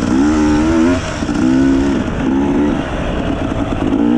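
Enduro dirt bike engine running under changing throttle, its pitch rising and falling in short pulls about once a second.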